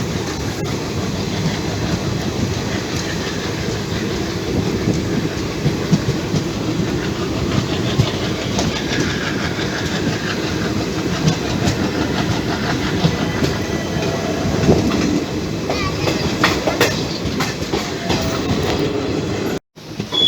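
Passenger train running at speed, heard on board: a steady rumble with wheels clattering over rail joints. The sound cuts to silence for a moment near the end.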